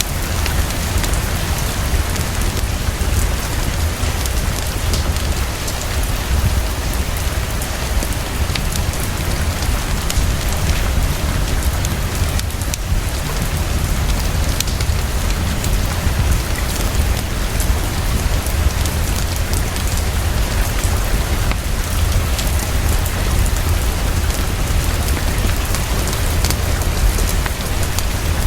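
Heavy rain falling fast and steadily, a dense patter of drops over a constant low rumble.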